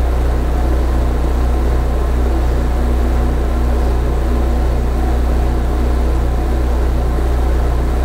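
Steady, loud, low machine drone with a constant hum and a few steady tones above it, unchanging throughout.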